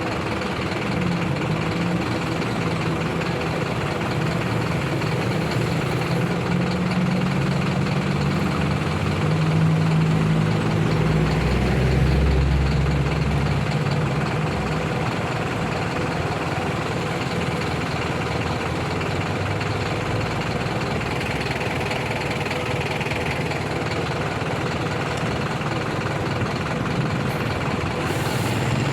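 Motorcycle engine running steadily on the move, under a constant rush of wind and road noise. The engine note drops a little about ten seconds in, with a deeper rumble for a few seconds.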